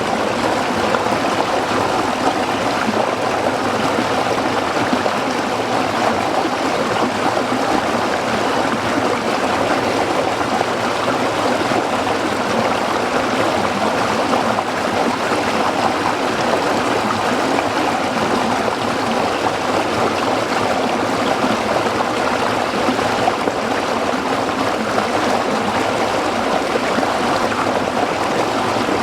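A stream running and babbling over rocks, steady and continuous.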